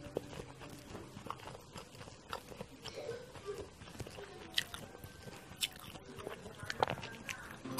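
Close-up chewing and mouth clicks of a person eating, with scattered sharp clicks, the loudest a little past halfway and near the end.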